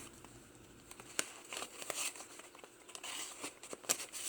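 Paper pages and tags of a handmade journal rustling and crinkling as they are handled and turned, in short scattered rustles and clicks.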